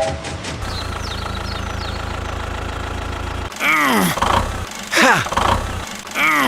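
A small engine running steadily at idle. From about three and a half seconds in, it gives way to loud, repeated swooping sounds that rise and then fall in pitch, roughly one every second and a bit.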